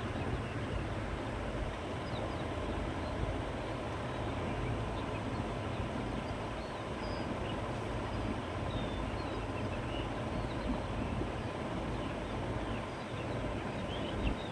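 Steady wind blowing across open countryside, a constant rushing with a low rumble, and faint short bird chirps scattered throughout.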